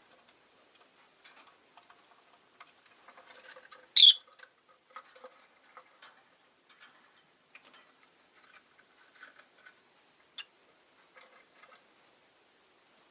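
Rosy-faced lovebirds in a cage making small clicking and rustling sounds, with one loud, short, shrill chirp about four seconds in and a shorter sharp chirp near the end.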